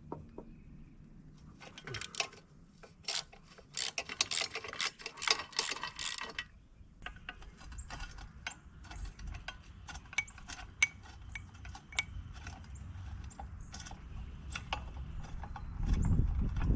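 Ratchet wrench clicking in quick runs while bolts are worked loose, with scattered metal ticks and clinks after, and a low thump of handled metal near the end.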